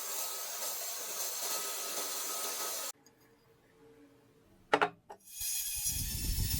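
Steady abrasive rubbing, like rust being sanded or filed off metal, that cuts off abruptly about three seconds in. Then a quiet stretch broken by two sharp knocks, and a short burst of rushing noise near the end.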